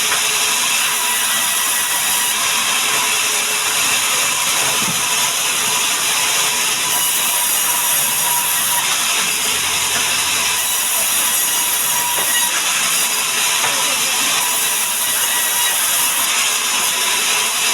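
Sawmill saw cutting through mahogany wood: a loud, steady, high rasping noise that keeps on without a break.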